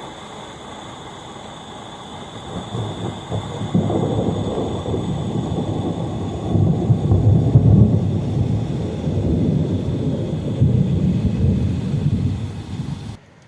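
Distant thunder: a deep, rolling bass rumble from lightning several kilometres away. It builds a couple of seconds in, swells to its loudest midway, rolls on, and cuts off suddenly near the end.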